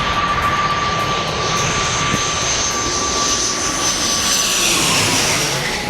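Jet airliner passing low overhead: a loud, steady engine whine and rush, with a high whistle above it. Both drop in pitch about five seconds in as the plane goes past.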